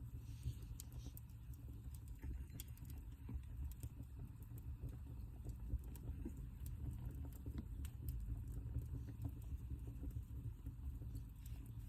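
Wood fire burning in a fireplace, with a low steady rumble and scattered small crackles and pops.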